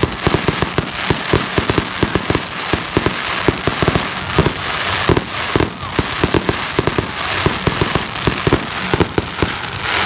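Fireworks going off in a rapid, continuous volley: many sharp bangs and crackles every second.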